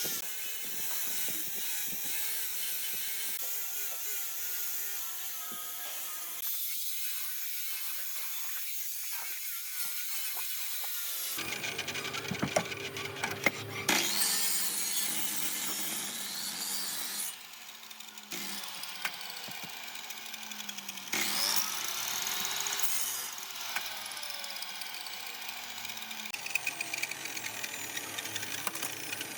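Electric power tools working wood in a string of short clips: motor whines that hold or glide in pitch over cutting and sanding noise, with a few sharp knocks about twelve to fourteen seconds in.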